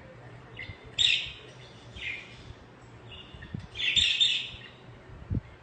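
Budgerigars chirping and warbling in short bursts of high chirps, the loudest about a second in and again around four seconds in.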